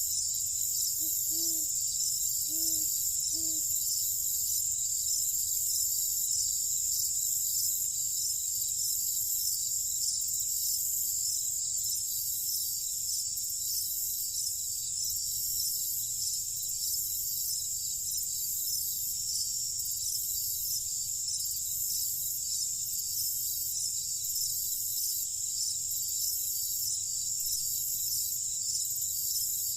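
A night chorus of crickets and other insects chirping steadily in a dense high-pitched wall of sound. Between about one and three and a half seconds in, an animal gives three short, low calls.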